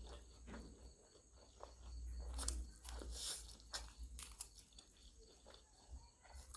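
Quiet eating sounds: scattered soft crunches, clicks and mouth noises of someone chewing fried food, over a faint low hum.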